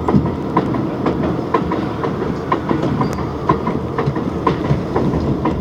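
R62A subway train running at speed, its wheels clicking over rail joints about twice a second above a steady rumble.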